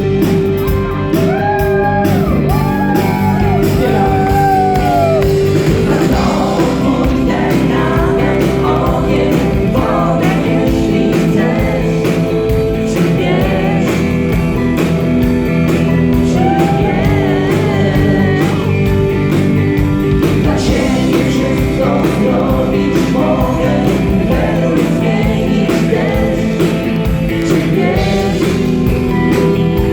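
Live rock band playing a passage between sung lines, over sustained chords, with a lead melody of bending notes.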